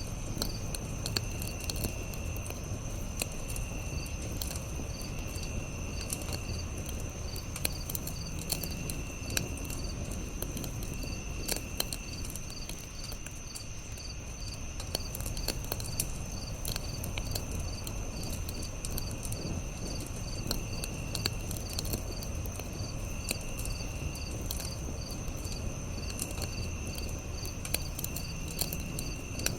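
Campfire burning with a low steady rumble and scattered sharp crackles and pops. Crickets chirp over it in a steady pulsing rhythm with a high continuous insect trill, and a lower trill comes and goes every couple of seconds.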